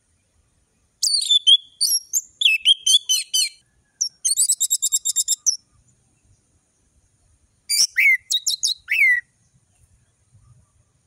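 Orange-headed thrush singing in three separate phrases. There are sliding whistled notes, a fast high trill about four seconds in, and sharp down-slurred whistles near the end, with short pauses between.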